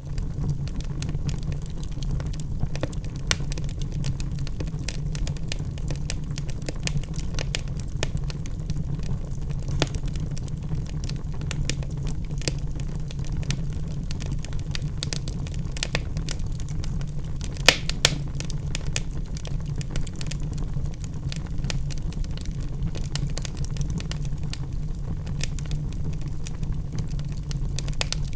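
Wood logs burning in a fireplace: a steady low roar of flames with frequent small crackles and pops, and two louder pops about two-thirds of the way through.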